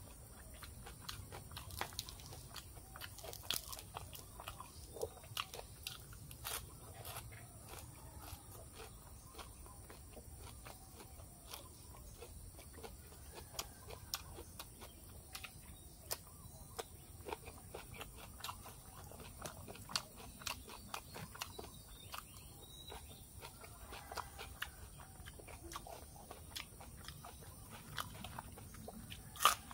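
Close-miked chewing and crunching of cartilaginous pig ear, with many small, irregular wet mouth clicks. A louder snap comes near the end.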